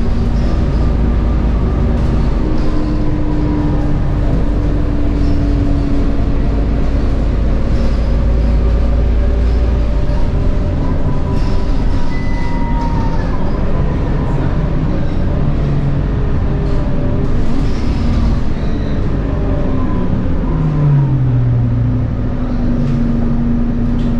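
Scania K230UB bus running under way, heard on board: its DC9 diesel engine and ZF Ecomat 6HP504C automatic gearbox whine, with pitches shifting as the bus changes speed. The pitch drops about 20 seconds in, then rises again.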